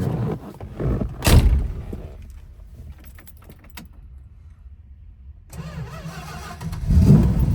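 Two loud thumps in the first second and a half, then the 1969 Dodge Coronet R/T's 440 Magnum V8 catches about five and a half seconds in and runs, getting louder near the end. It is a hot start, the engine already warm.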